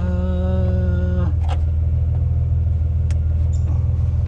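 Vehicle engine idling with a steady low rumble. A steady pitched hum sounds over it for about the first second, and a single click comes near the middle.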